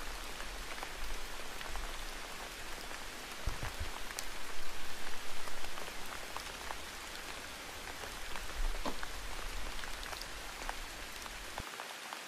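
Steady rain falling, an even hiss dotted with small drop ticks, with a few soft low thumps about four to five seconds in.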